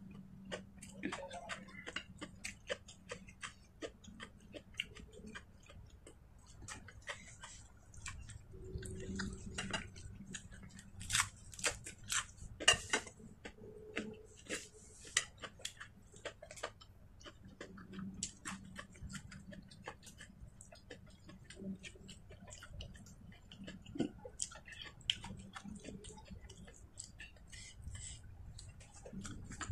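Someone eating with their fingers from a plate: chewing, with many irregular small clicks and taps, the sharpest cluster a little before halfway.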